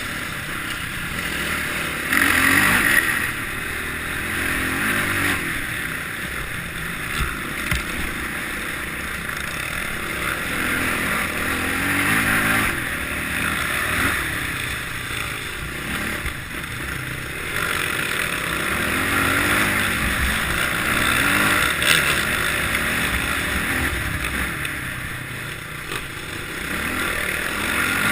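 Kawasaki KLX650R's single-cylinder four-stroke engine revving up and falling back again and again while being ridden off-road, with a brief knock about three-quarters of the way through.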